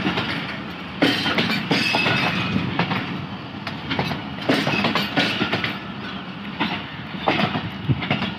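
Pakistan Railways passenger coaches rolling past at speed on a departing train, wheels clattering over the rail joints with irregular sharp knocks over a steady rumble.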